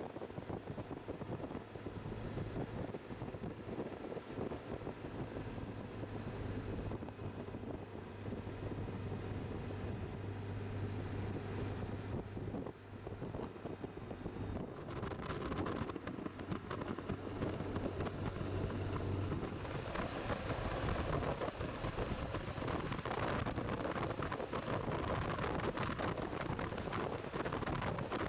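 BMW R1200 GS Adventure boxer-twin motorcycle running on the move, with wind rushing over the microphone; it gets louder about halfway through.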